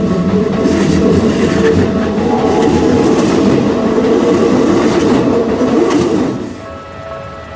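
Keikyu Line electric train passing over the level crossing, its wheels clattering over the rail joints. The rumble falls away suddenly about six seconds in as the train clears the crossing. A repeating electronic ding, the crossing's warning signal, carries on ringing.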